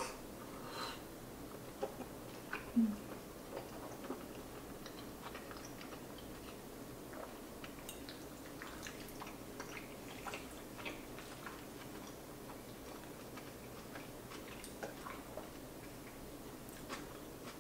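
Quiet chewing and mouth sounds of a person eating soft, cheesy pasta, with scattered small clicks of a metal fork against a ceramic bowl. A short low hum about three seconds in is the loudest moment.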